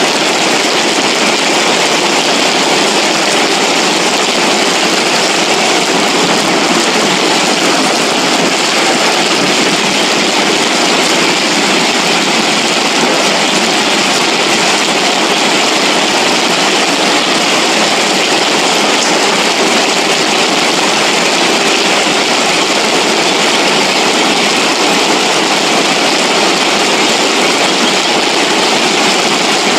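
Floodwater rushing down a wadi after heavy rain: a loud, steady rush of water.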